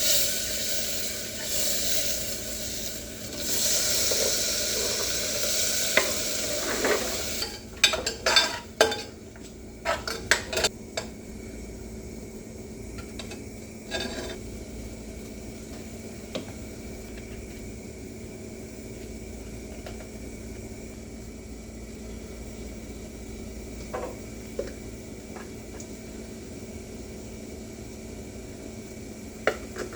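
Food sizzling loudly in a frying pan for the first seven seconds or so. Then comes a quick run of sharp clatters, a utensil knocking against the pan while stirring, and after that a few light knocks.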